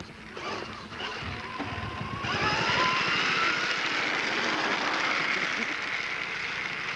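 A small motor running with a high whine that starts suddenly about two seconds in, rises briefly in pitch, then holds steady.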